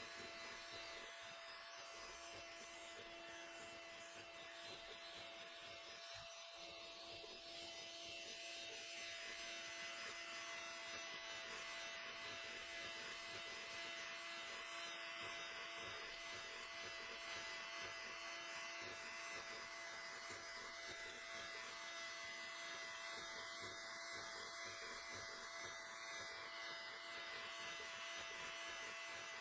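A small electric motor humming steadily.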